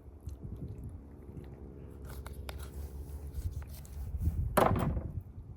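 Knife and hands working raw chicken as the fat is trimmed off: wet squishing and cutting with a few light clicks over a low rumble. A short voice sound comes near the end.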